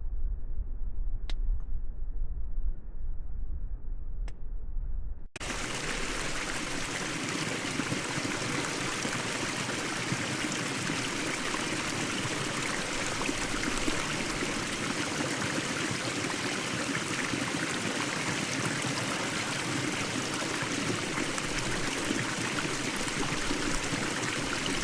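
Wind rumbling on the microphone with two short clicks. About five seconds in it cuts to the steady hiss of rain falling.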